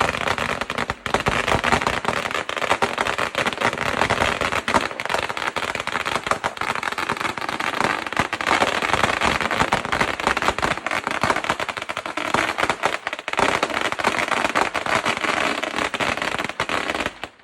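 A 100,000-shot string of firecrackers going off in a dense, continuous crackle of rapid bangs, cutting off abruptly near the end.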